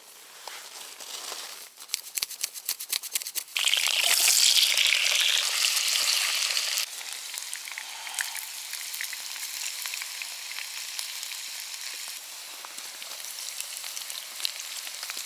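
Hot oil crackling in a frying pan, then a loud sizzle about three and a half seconds in as potato pieces go into the oil. The sizzle eases after about seven seconds into a steady frying sizzle.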